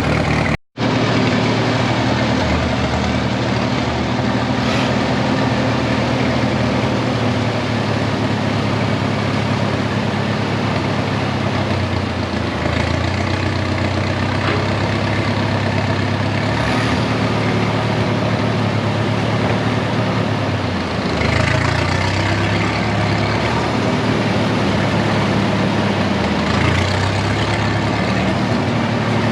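1947 Case Model S tractor's four-cylinder engine running steadily on its new spark plugs, its note shifting briefly a couple of times. A split-second gap in the sound comes just under a second in.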